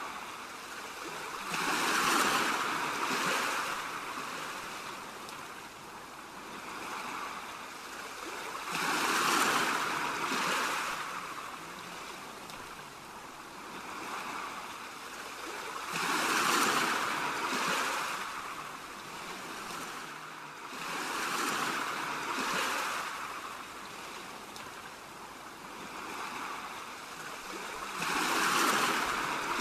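Ocean waves breaking and washing up a shore, a steady hiss rising and falling in slow swells, the largest about every six or seven seconds.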